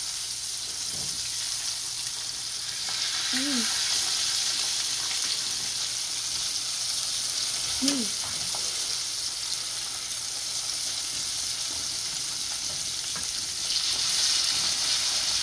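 Red snapper deep-frying in hot oil: a steady sizzle that grows louder about three seconds in and again near the end.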